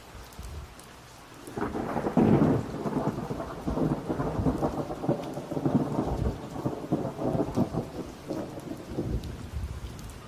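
A peal of thunder breaks about a second and a half in, loudest at the start, then rumbles and crackles on for several seconds before fading, over steady rain.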